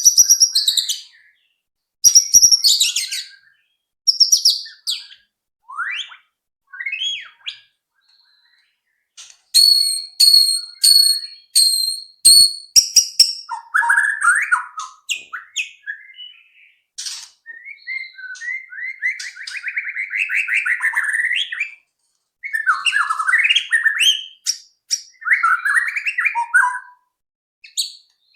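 White-rumped shama (murai batu) singing: a varied string of loud whistled phrases, quick runs of repeated notes and a buzzy trill, broken by short pauses.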